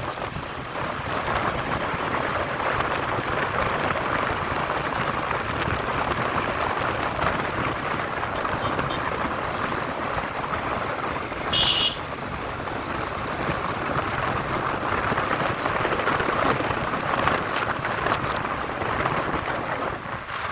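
Steady rain, an even hiss with no let-up. About twelve seconds in, one short, high-pitched sound cuts through it.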